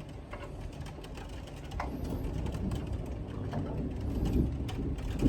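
Severe thunderstorm wind during a derecho: a low rumbling rush of wind noise that grows louder about two seconds in, with a few faint knocks.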